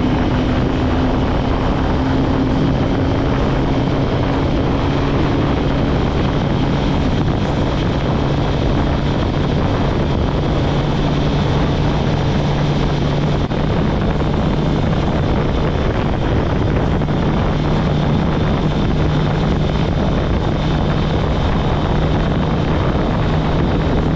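Kawasaki ZX-10R inline-four engine running at a steady cruise, its pitch creeping slowly upward over a constant rush of riding noise.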